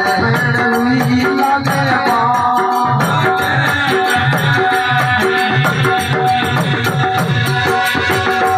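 Folk devotional music of a Rajasthani bhajan, played without singing: held steady chords over a regular drum beat of about two strokes a second, with fast jingling percussion on top.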